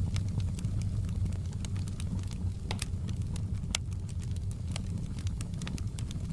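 Outdoor wood campfire burning: frequent sharp, irregular crackles and pops over a steady low rumble.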